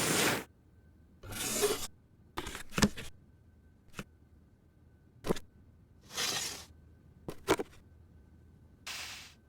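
Handling noises in a small room: a series of separate rustles and scrapes with several sharp clicks, irregularly spaced, over a faint steady high hum.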